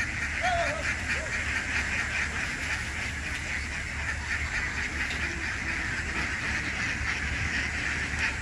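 A large flock of farm ducks quacking together in a dense, continuous chatter of many overlapping calls, with one clearer call standing out about half a second in.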